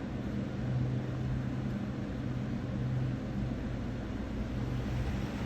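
Steady low mechanical hum over background noise, without a break.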